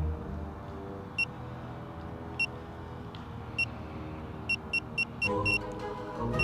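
Short, high electronic warning beeps from the drone system after the control signal is lost, about one every second at first, then quickening to several a second near the end, over a steady low hum.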